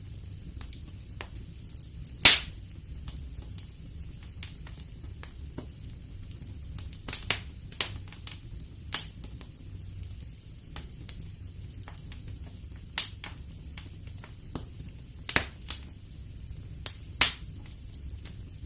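Wood fire in a fireplace crackling: sharp pops and snaps at irregular intervals, the loudest about two seconds in, over a low steady rumble.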